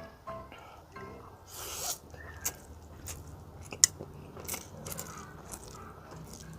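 Close-up eating: a bite, then crisp crunching as spicy cheese-ring corn snacks are chewed with fried noodles. Sharp crackly clicks come at an uneven pace, the loudest about four seconds in.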